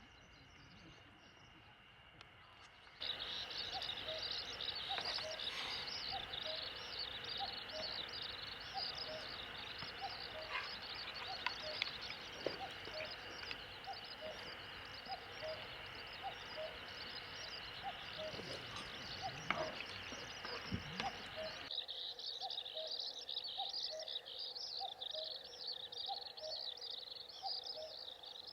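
Outdoor ambience of dense, rapid high-pitched chirping, with a soft lower call repeating about every second. It starts abruptly about three seconds in, and its background hiss drops suddenly near the end.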